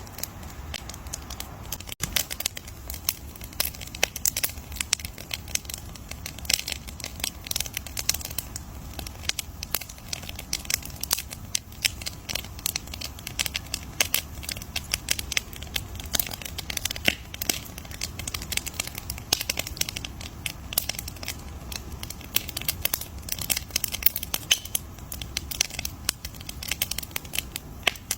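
Campfire crackling: a dense run of irregular pops and snaps over a low steady rumble.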